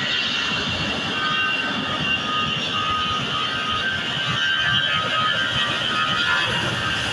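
Airbus A320 jet engines running at high take-off power: a steady, loud rush with high whining tones from the engines.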